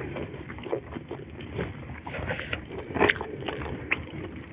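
Close-miked chewing of a mouthful of rice and food: wet, irregular mouth clicks and crackles, with one louder one about three seconds in.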